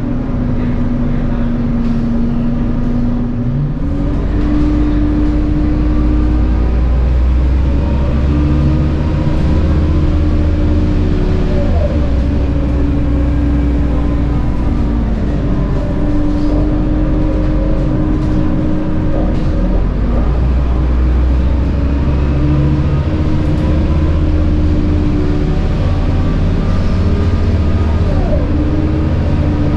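Scania K230UB bus running with its 9.3-litre Scania DC9 engine and ZF Ecomat 6HP504C six-speed automatic gearbox. The engine drones low under a high-pitched whine from the gearbox. The whine rises and steps in pitch at each gear change, several times.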